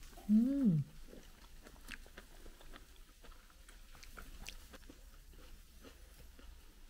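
A person chewing a piece of vegetable pancake, with a short hummed "mm" rising and falling in pitch about half a second in. Light scattered clicks follow, from wooden chopsticks on the plates.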